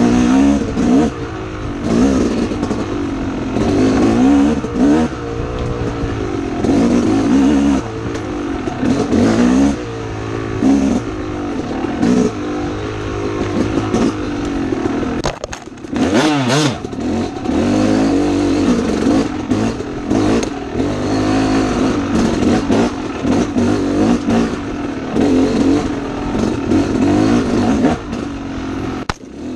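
Dirt bike engine ridden hard through tight trail, the revs rising and falling every second or two as the throttle is worked. About halfway through the revs drop briefly, then climb sharply again.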